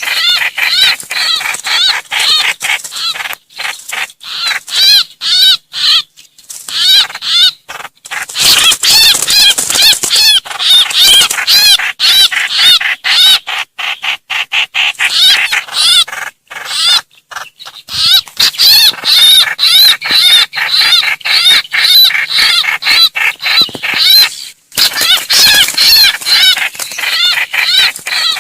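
Trao trảo birds giving distress and flock-gathering calls: a loud, dense run of rapid arching notes repeated many times a second, with a few short breaks. This is a lure call for trapping birds.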